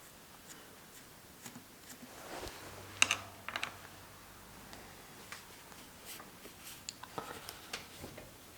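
Scattered light clicks and taps, irregular, with a sharper cluster of clicks about three seconds in.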